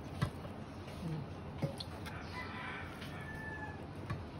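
A single long bird call, starting about two seconds in and lasting about a second and a half, with two short knocks before it.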